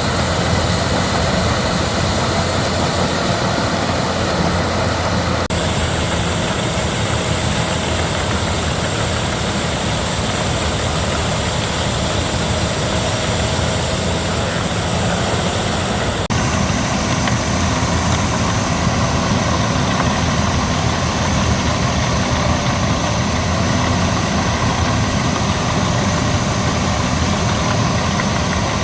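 Albach Diamant 2000 wood chipper running steadily under its engine, a continuous loud machine drone with a faint high whine over it.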